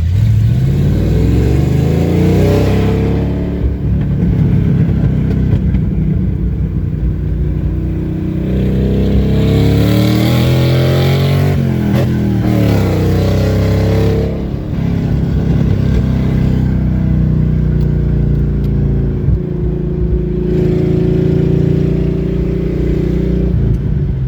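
Car engine and exhaust running loud under acceleration, its pitch rising and falling several times as the throttle is opened and eased off.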